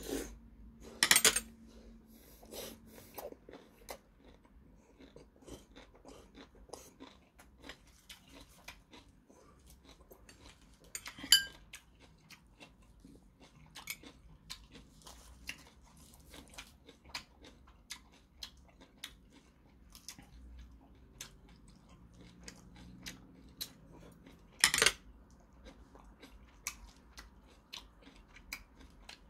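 Close-miked chewing and mouth smacking of a man eating grilled pork belly, kimchi and rice, heard as a run of small wet clicks. Three louder sharp clinks come about a second in, around eleven seconds and near the end; the middle one rings briefly, like metal chopsticks striking a dish.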